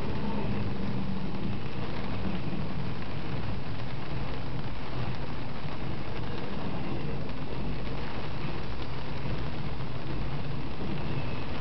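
Norfolk Southern intermodal freight train rolling past in the rain: a steady low rumble of the train mixed with the hiss of falling rain.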